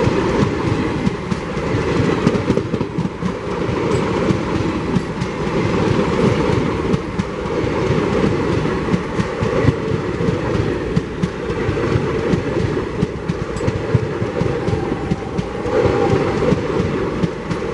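ICF passenger coaches of an express train rolling past close by at speed: a steady, loud rumble with wheels clattering over the rail joints.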